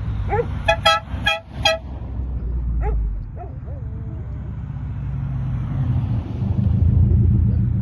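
Car horn tooted four times in quick succession about a second in, over the steady low rumble of running engines.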